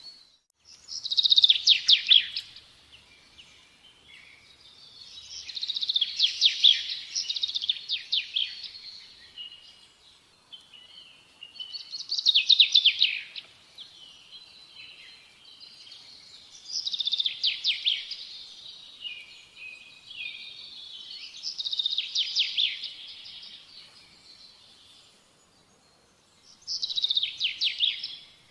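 A songbird singing: six phrases of fast high trills, each one to three seconds long, a few seconds apart.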